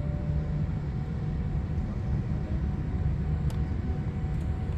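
Jet airliner engines running with a steady low rumble and a few faint steady whining tones above it.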